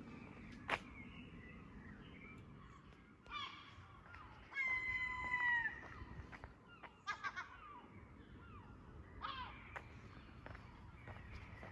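Birds calling: a few short calls and one longer call about halfway through, with a sharp click near the start.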